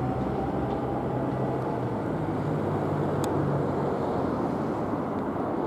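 Southeastern Class 465 electric multiple-unit train running past, a steady rumble with a low hum.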